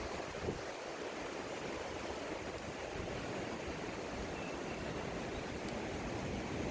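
Steady rushing wash of ocean surf, an even hiss with no distinct breaks or impacts.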